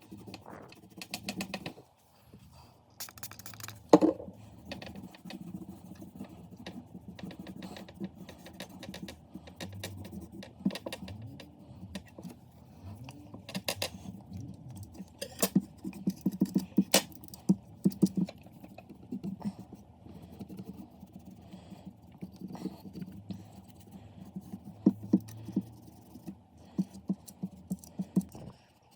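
Irregular light clicks and taps over a steady low hum, with a sharper knock about four seconds in.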